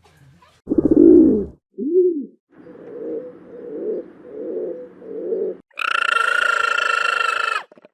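A string of animal calls from separate clips: a low call, then several short, low, arched cooing calls, then one loud, steady, high-pitched call lasting nearly two seconds near the end.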